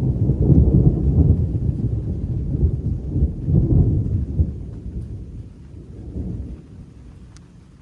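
Thunder rolling: a long low rumble with several swells, dying away toward the end.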